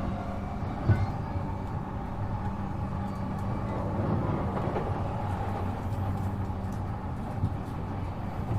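E233-7000 series electric train running, heard from inside the car: a steady rumble of wheels on rail with a constant motor hum. A single knock comes about a second in.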